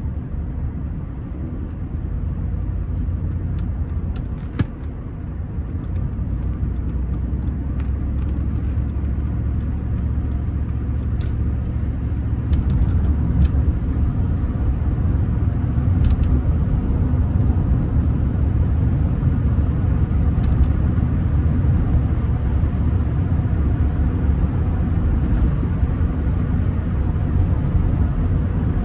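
Rolls-Royce Silver Spirit III on the move, heard from inside the cabin: a steady low rumble of engine and road noise that grows louder about halfway through, with one brief knock early on.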